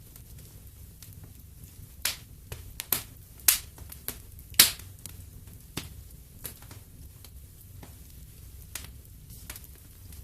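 Wood fire in a fireplace crackling: scattered sharp pops, several loud ones bunched from about two to five seconds in, over a low steady rumble.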